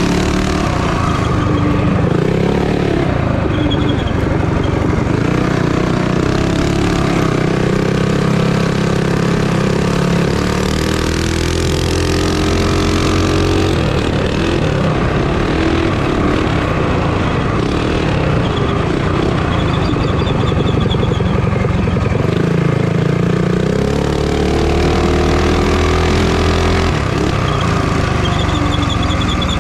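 Minibike engines racing at high revs, the pitch rising and falling with throttle through the corners and straights.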